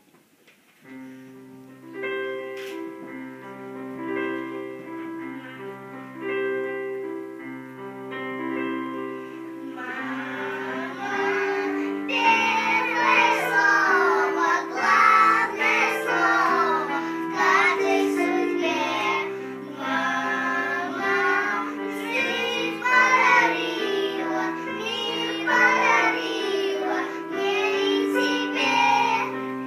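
A song with a recorded backing track. The instrumental introduction plays for about ten seconds, then children start singing along with it.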